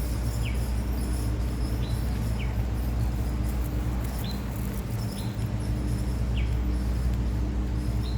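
A bird giving short, high, falling chirps, one every second or so, over a steady low hum.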